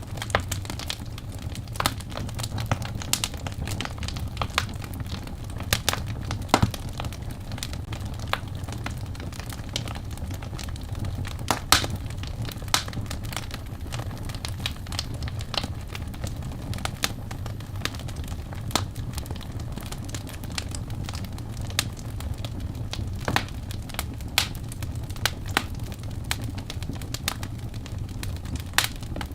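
Birch logs burning in a fireplace, crackling with irregular sharp pops and snaps, a few much louder than the rest, over a steady low rumble of the fire.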